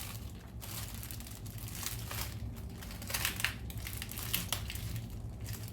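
Knife cutting celery on a cutting board: irregular short chops and crunches.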